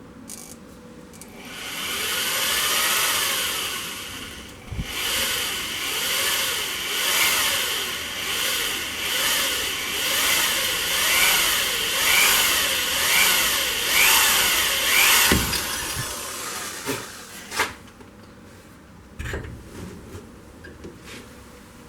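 Electric drill running under load, its pitch rising and falling about once a second as it bores a mounting hole. It stops after about fifteen seconds and is followed by a few sharp knocks.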